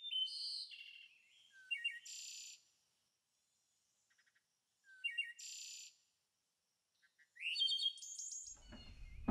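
A songbird singing in short, separate phrases of high whistles and trills, four bursts with silent gaps between them. A low rumbling background noise comes in near the end.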